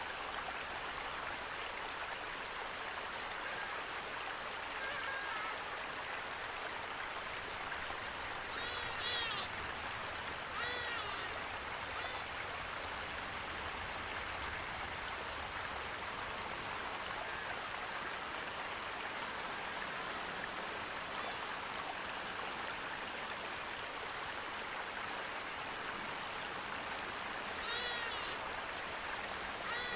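Steady rushing of a stream or waterfall. Over it come a few short, pitched animal calls: a pair about nine and eleven seconds in, and more near the end.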